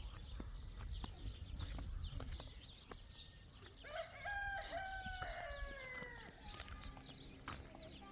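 A rooster crowing once, about halfway in: one long call of about three seconds that drops in pitch at the end. Scattered clicks and knocks, with a low rumble in the first half.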